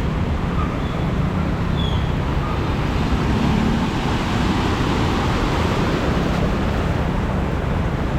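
Heavy rain with motor traffic on a flooded street: a steady dense wash of rain and water over the low rumble of passing engines.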